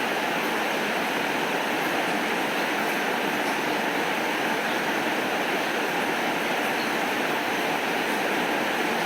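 Steady heavy rainfall, an even hiss with no breaks or thunderclaps.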